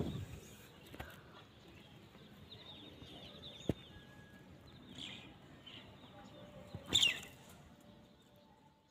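Faint small-bird chirps in the background. A run of short twitters comes a few seconds in, more follow, and a louder falling chirp comes about seven seconds in. A single sharp click comes just before the four-second mark.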